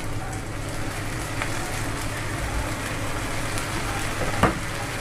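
Chopped onions and ginger-garlic paste frying in oil in a nonstick kadai: a steady sizzle, with one sharp knock near the end.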